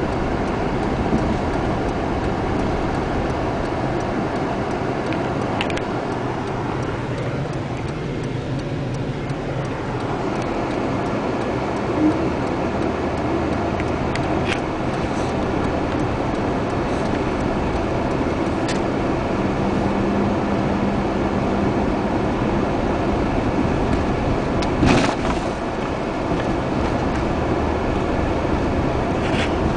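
A moving car's steady road and engine noise, with a few brief knocks along the way.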